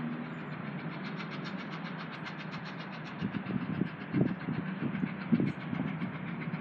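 A train at a station: a steady low engine hum with a fast, even ticking, then from about halfway irregular low thuds and buffeting.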